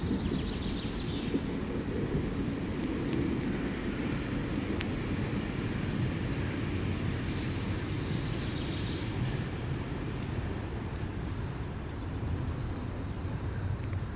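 Steady low rumble of city traffic, with faint higher sounds over it.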